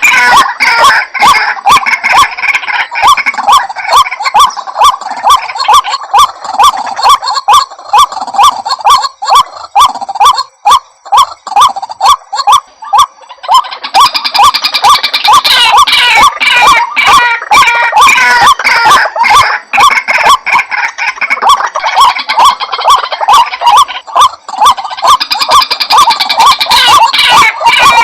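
White-breasted waterhen lure recording: loud, rapidly repeated croaking calls overlapping in a dense chorus. The calls thin out about a third of the way in, then build back up from about halfway.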